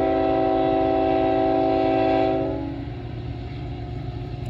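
Diesel locomotive's multi-chime air horn sounding a long, steady chord that cuts off about two and a half seconds in, leaving the low rumble of the passing freight train.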